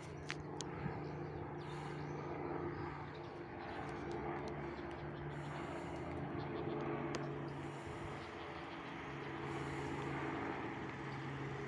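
Helicopter flying overhead: a steady drone of its rotor and engine, fairly quiet and even throughout.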